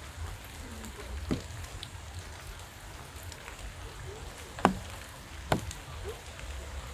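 Steady rain falling, with a low rumble underneath. Three sharp, louder drip-like taps stand out: one just over a second in, and two close together past the middle, the first of these the loudest.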